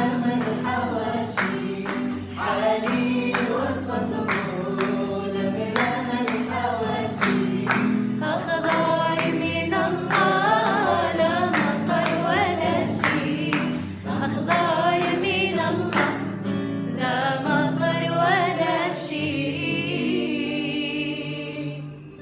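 Yemeni song: melodic singing that the speech recogniser catches no words in, over an instrumental backing of held low notes and a percussion beat. The music drops away near the end.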